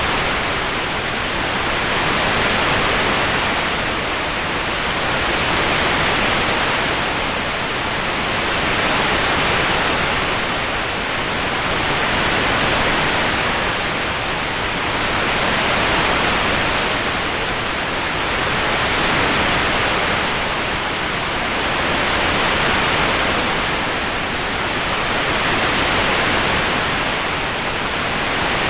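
Steady rain-sound background, an even hiss that swells and eases gently about every three seconds.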